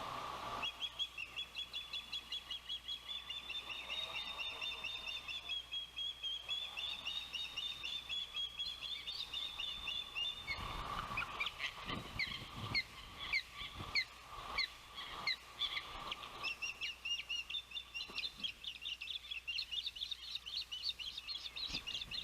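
Ospreys calling: a fast, nearly unbroken series of high, whistled chirps, with a run of low thumps partway through.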